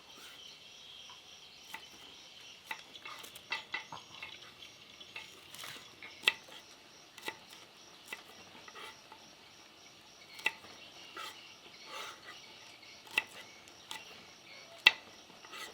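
Scattered sharp clinks and clicks of utensils against dishes, a few of them louder, over a steady chirring of crickets.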